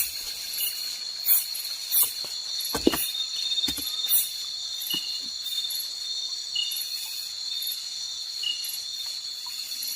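Insects droning steadily on one high note. Several sharp knocks and clicks fall in the first four seconds, and short high chirps repeat every second or two after that.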